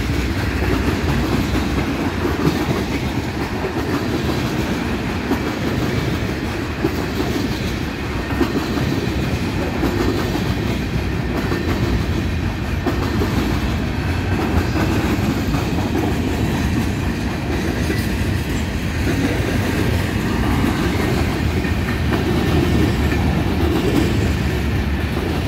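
Freight train's tank cars and covered hopper cars rolling past close by: steel wheels running on the rails in a steady, unbroken low noise.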